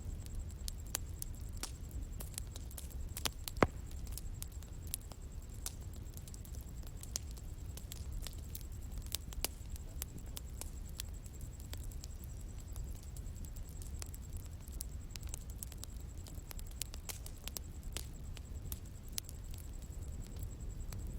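Bonfire burning and crackling: irregular sharp pops and snaps over a low steady rumble, with one louder pop a few seconds in.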